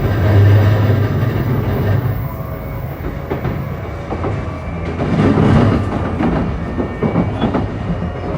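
Running sound heard inside a JR East E235-1000 series electric multiple unit under way: a low motor hum and wheel-and-rail noise, with louder clattering over rail joints about five seconds in.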